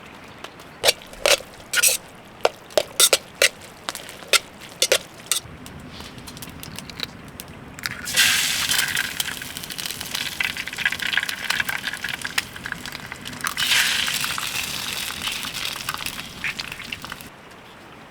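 Camp cooking: metal cookware and utensils clinking and knocking sharply a dozen or so times. Then two long stretches of loud hissing set in, the second about six seconds after the first, like something going into a hot pan or hot liquid being poured.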